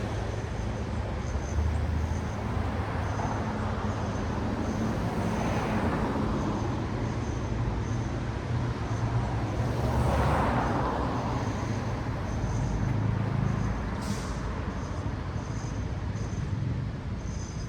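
Road traffic: vehicles passing with tyre noise over a steady low rumble, two louder pass-bys about five and ten seconds in, and a brief sharp hiss about fourteen seconds in.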